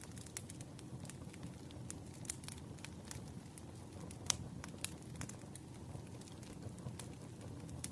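Wood fire burning: logs crackling with irregular sharp pops over a steady low rumble of flame. One pop about four seconds in stands out as the loudest.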